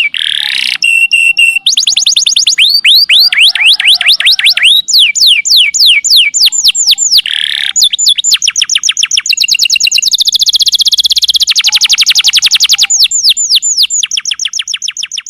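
Domestic canary singing a long unbroken song of rapid trills, each note a quick falling whistle, the phrases changing every second or two, with a faster, denser roll about two-thirds of the way through.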